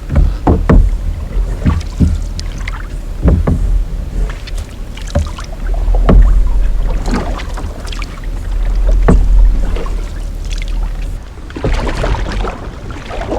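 Canoe paddle strokes dipping and pulling through the water, a splash about every second, over a steady low rumble.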